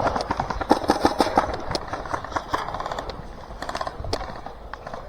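Airsoft guns firing in several short, rapid full-auto bursts, a fast clatter of sharp clicks.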